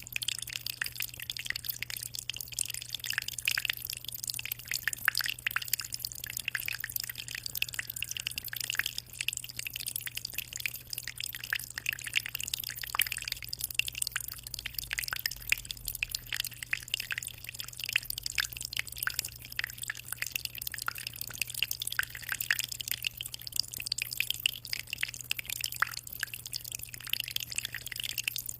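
Continuous water flow in an aquarium: an unbroken patter of small drips and splashes, with a low steady hum underneath.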